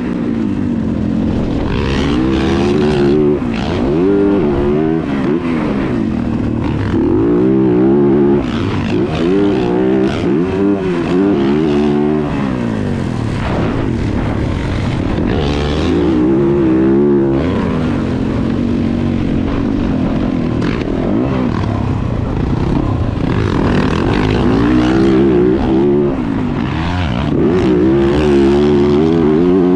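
Yamaha 450 four-stroke motocross bike engine working hard on a track, its revs climbing and dropping again and again as the rider accelerates, shifts and backs off.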